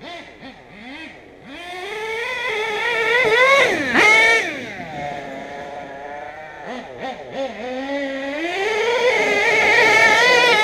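HPI Savage nitro RC truck's small glow engine revving. Its pitch climbs to a sharp peak about four seconds in and drops back, then rises again and holds high near the end. It is tuned to run rich and is called loud.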